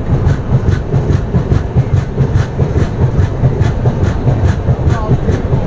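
Passenger train coaches rolling into a station, with a steady rumble and a regular run of wheel clicks over the rail joints, heard from an open coach doorway.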